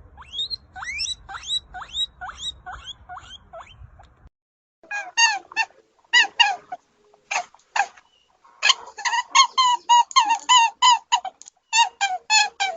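Small animal squeaking: first a slow series of short calls that rise sharply in pitch, then, after a pause about four seconds in, quicker runs of short high squeaks.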